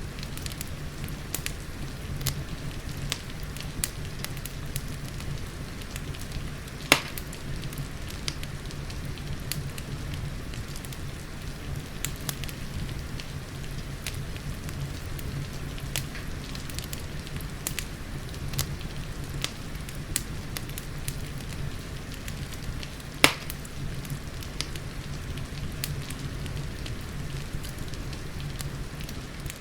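Crackling wood fire in a fireplace mixed with steady rain: a continuous hiss of rain under frequent small crackles, with two louder pops from the fire, one about a quarter of the way in and one about three-quarters through.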